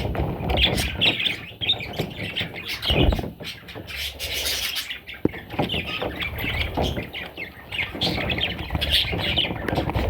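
Budgerigars chirping and squawking continuously, with a few sharp knocks mixed in.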